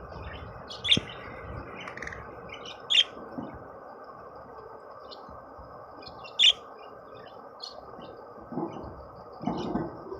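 Budgerigars chirping: short, sharp, high calls, three louder ones about one, three and six and a half seconds in, with softer chirps between, over a steady low hiss.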